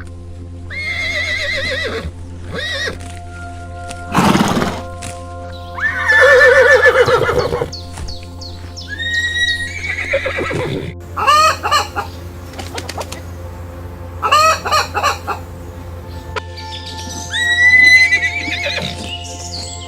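A string of separate farm-animal calls over steady background music: horse whinnies and chicken calls, each a short wavering cry, about eight in all with gaps between.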